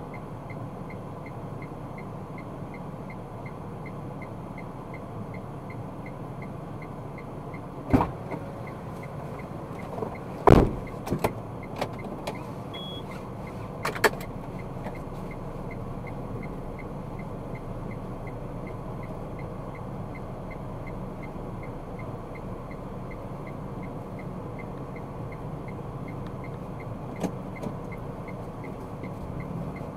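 Car driving in city traffic, recorded by a dashcam inside the car: a steady road and engine rumble with a faint regular ticking about twice a second. Several sharp knocks come about a third of the way in, the loudest a pair of thumps, and a short beep sounds among them.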